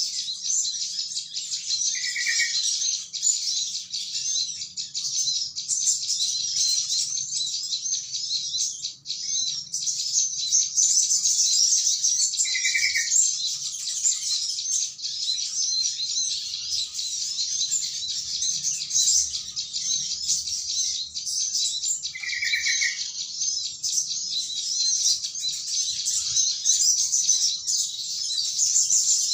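Continuous, dense high chattering of a flock of small birds, with a short, lower call from a yellow-vented bulbul breaking in three times about ten seconds apart. It is a call recording used as a lure for bird trapping.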